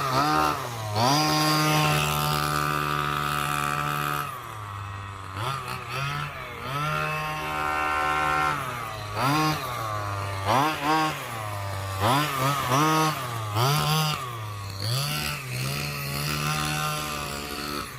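Small 32cc two-stroke gas engine of a Redcat Racing Rampage MT RC car running, holding a steady pitch at first, then rising and falling over and over as the throttle is blipped.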